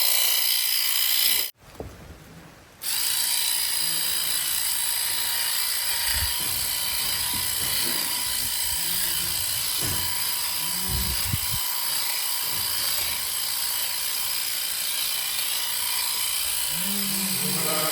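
Electric sheep-shearing handpiece running steadily with a high whine while dagging out lambs; it cuts out briefly about a second and a half in. Lambs bleat a few times over it.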